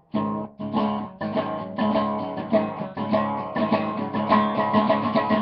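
Acoustic guitar playing an instrumental passage of quick, closely spaced plucked notes, with no singing.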